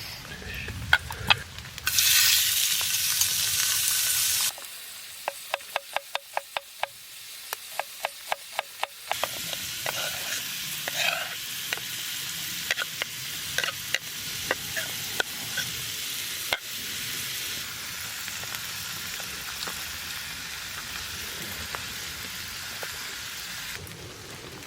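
Food frying in a pan over a campfire. A loud burst of sizzling comes about two seconds in and lasts a couple of seconds, then a run of quick, regular clicks, about three or four a second, then steady sizzling with scattered clicks and scrapes of stirring.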